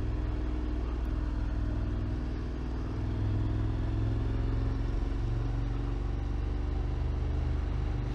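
Motorcycle engine running at a steady cruising pace while riding, heard from a microphone on the rider's helmet chin skirt, with wind noise over it.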